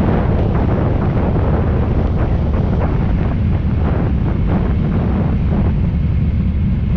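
Heavy wind buffeting the microphone of a moving Ducati cafe racer motorcycle: a steady low rumble, with the bike running underneath it. The higher hiss eases about six seconds in.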